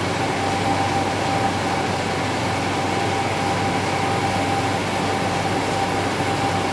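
Steady, unchanging mechanical drone with a constant thin whine: the Chevy S10 pickup's engine idling.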